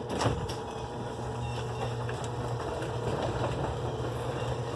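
Electric garage door opener running, a steady motor hum as it moves the door.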